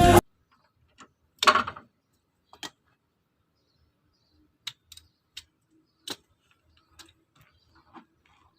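Background music cutting off at the start, then a short clatter about a second and a half in and a scattered handful of faint, sharp clicks and knocks.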